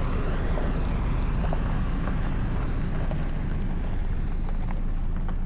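Steady low rumble of a car rolling slowly, heard from inside the cabin, with a few faint clicks.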